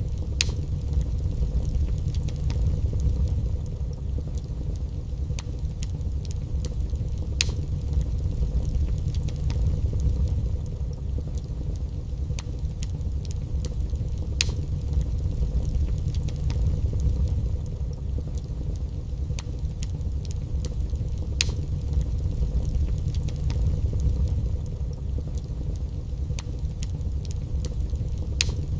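Wood fire burning in a fireplace: a steady low rumble of flames that swells and eases every few seconds, with sharp crackles and pops at irregular intervals.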